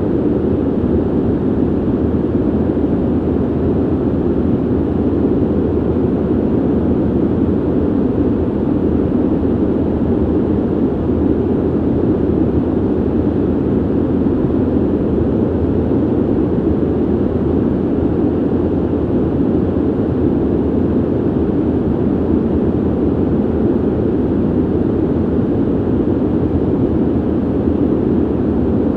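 Ventilation system's steady airflow rush, deep and muffled, holding even throughout with no changes.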